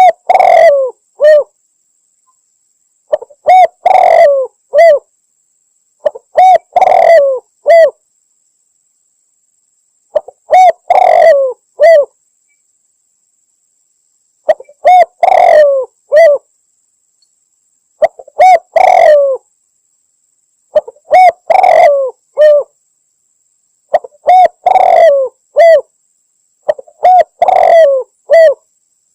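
Spotted dove (tekukur) cooing, from a looped lure-call recording: nine phrases of three or four coos, one every three to four seconds, with dead silence between them. The call is meant as a female's call to draw in males.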